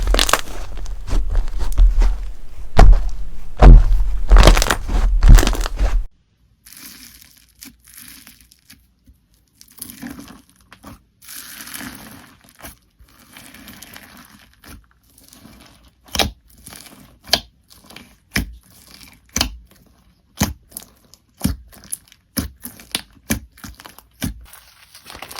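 Slime being squeezed and pressed, crunching and crackling loudly and densely for about six seconds. Then, after a sudden cut, it crinkles more quietly, and from the middle on sharp pops come one or two a second.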